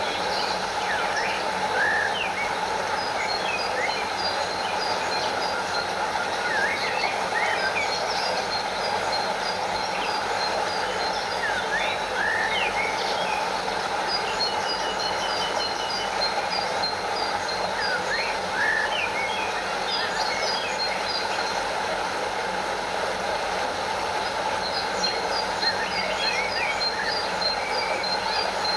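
Stream water running steadily with a small waterfall cascading, an even rushing wash. Short high chirps in quick rows and scattered brief calls sound over it throughout.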